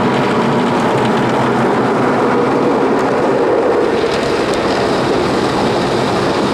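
Rotating car-wash brush scrubbing over the roof of the car, heard from inside the cabin as a loud, steady rumbling swish.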